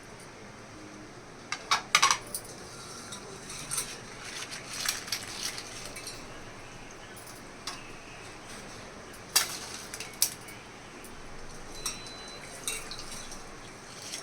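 Kitchen utensils and cookware clinking and knocking in irregular, scattered strikes, the loudest a quick cluster about two seconds in and a single sharp clink past the middle.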